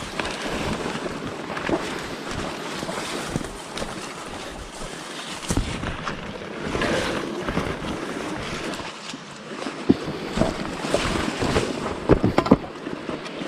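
Wind buffeting the microphone with a rough, rustling noise, broken by a few sharp knocks or cracks, the loudest about ten seconds in and a cluster near the end.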